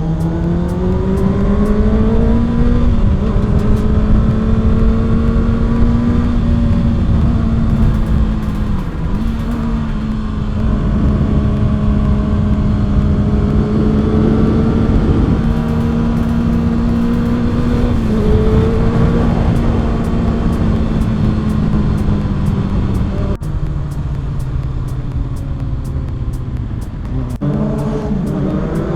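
Kawasaki ZX-6R's inline-four engine heard from the rider's seat, revs climbing at first, then holding steady at cruising speed. Near the end the revs drop and then climb again.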